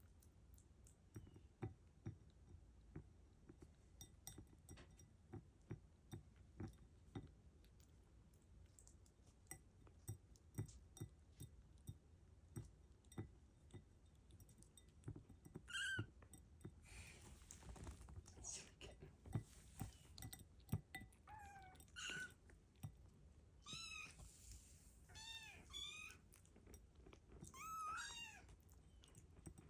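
Kittens mewing: several short, high mews in the second half. Faint quick clicking and chewing runs under them as the kittens eat from a bowl.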